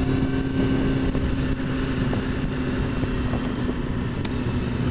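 Kawasaki ZX-6R's 600 cc inline-four engine running at a steady cruise, with wind rushing over the rider's helmet microphone.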